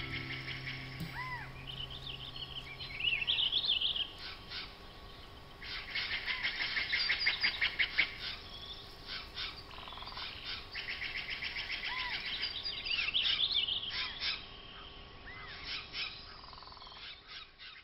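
Small birds chirping and singing, with fast rattling trills that come in two long runs. A low drone stops a few seconds in.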